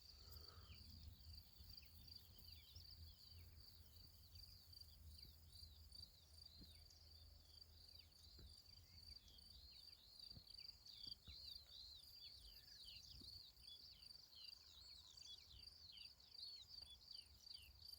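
Faint dawn birdsong: many short, high chirps repeating throughout over a steady high-pitched insect trill, with a low background rumble.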